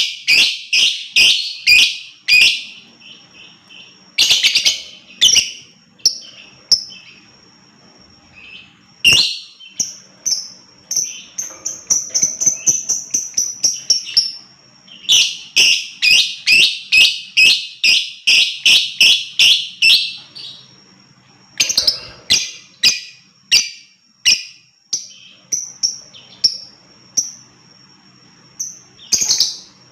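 Lovebird chattering: loud, sharp, high-pitched chirps repeated in rapid runs of several a second, the longest run in the middle, broken by short pauses and scattered single chirps.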